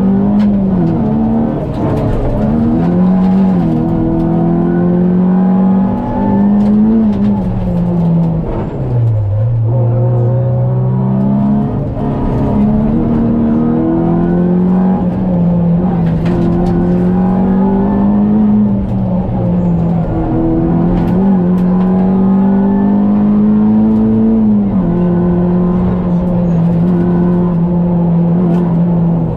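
Opel Astra GSi rally car's four-cylinder engine, heard inside the cabin at stage pace. It revs up and drops back again and again through the gear changes, with a slower, lower-revving stretch about nine seconds in.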